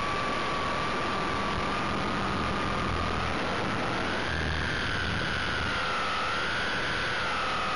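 RC helicopter's motor and gear train whining under a steady rush of rotor and wind noise, heard from a camera on board. The whine rises in pitch about halfway through, dips, rises again and settles as the throttle and load change in flight.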